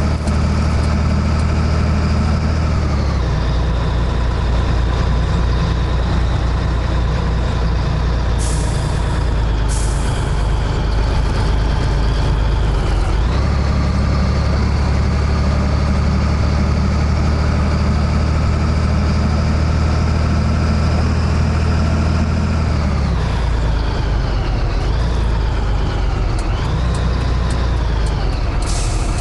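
Scania 113H truck's diesel engine running steadily under load, its pitch dropping and climbing again a few times as gears change, with three short hisses of released air.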